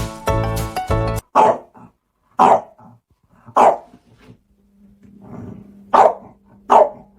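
A dog barking: five single barks, three about a second apart, then a pause and two more close together. Music plays under the first second and then stops.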